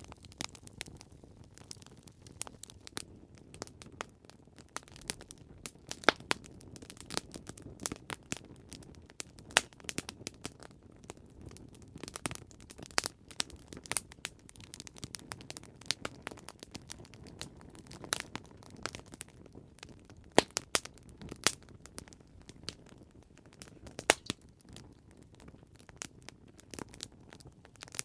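Campfire crackling: irregular sharp pops and snaps of burning wood over a low, steady hiss of flame.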